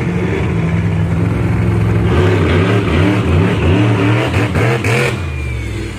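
Monster truck engine revving hard, its pitch climbing and dropping back several times in quick succession.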